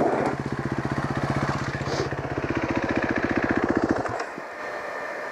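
Trail motorcycle engine running nearby with an even, rapid beat, which cuts out about four seconds in.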